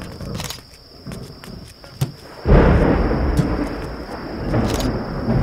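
A sharp click, then about halfway through a sudden deep rumble like thunder starts and rolls on, slowly easing.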